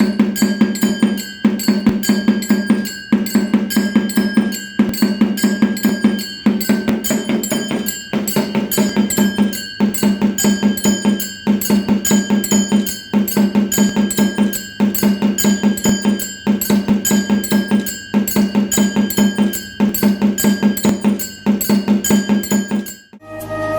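Electric temple drum-and-bell machine (10-inch melathalam), freshly restored, playing: rapid drum strokes under a ringing bell, in a repeating cycle with a brief break about every second and a half. It stops shortly before the end.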